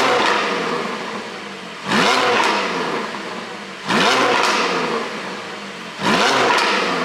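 Porsche 718 Boxster GTS 4.0 flat-six blipped about every two seconds, each rev rising fast and then dying away, with sharp pops from the exhaust as the revs fall. These are overrun pops from a pop-and-crackle ECU tune, heard through an opened exhaust flap and Milltek link pipes.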